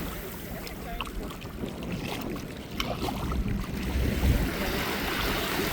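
Wind buffeting the microphone, an uneven low rumble over the sea, with a few faint clicks.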